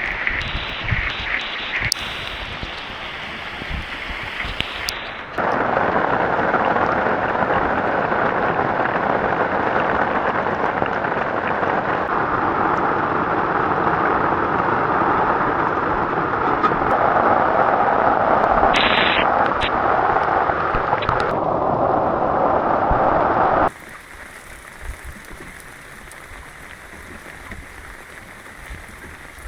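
Heavy rain pouring down in a loud, steady, dense hiss that comes in abruptly about five seconds in and cuts off suddenly near the end, leaving a quieter steady hiss.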